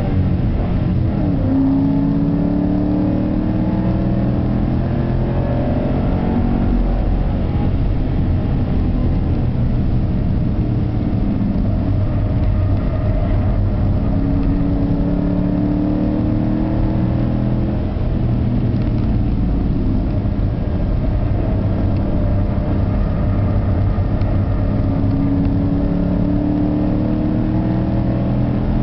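Car engine heard from inside the cabin, pulling hard with its pitch climbing in long sweeps three times, over a steady low rumble of road and drivetrain noise.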